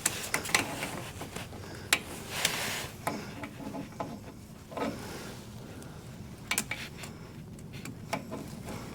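Irregular metal clicks and short scrapes of vise grips working a hose clip around a rubber hose.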